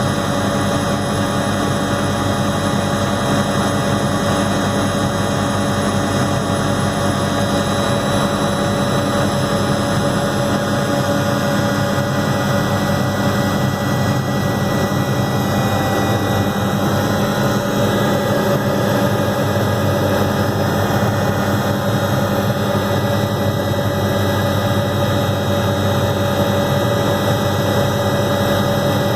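Helicopter in flight, heard from aboard: engine and rotor noise making a loud, steady drone with a constant hum that does not change in pitch.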